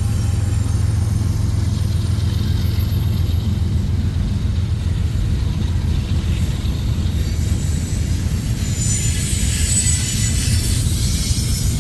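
Approaching freight train: a steady low rumble of diesel locomotives, with a hiss of wheel and rail noise building over the last few seconds as the train nears.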